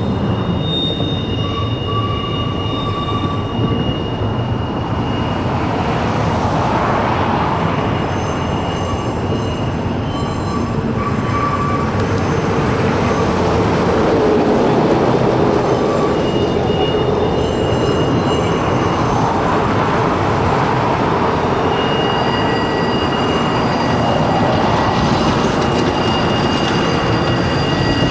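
Train cars rolling past on the rails, a steady rumble with thin high-pitched wheel squeals that come and go.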